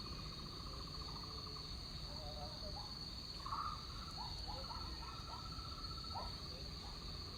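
Tropical rainforest ambience: a steady high-pitched insect drone with a fast pulsing trill beneath it. Short rising chirping calls come in a loose series from about two seconds in.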